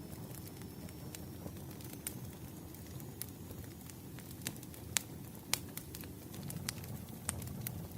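Burning firewood crackling: irregular sharp pops, a few louder ones in the second half, over a low steady rumble.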